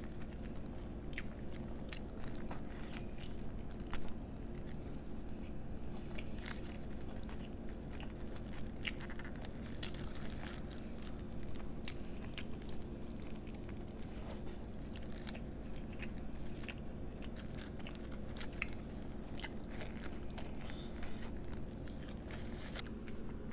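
Close-miked chewing and biting of a nori-wrapped sushi burrito, with many small scattered crunches and mouth clicks over a faint steady hum.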